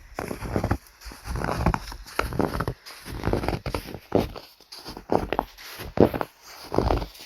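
Footsteps crunching through snow at a steady walking pace, about one step a second.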